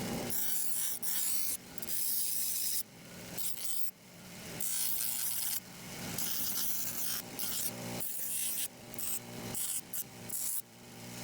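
A tool cutting or filing a workpiece: harsh rasping strokes that come in irregular passes, each broken off by a short pause.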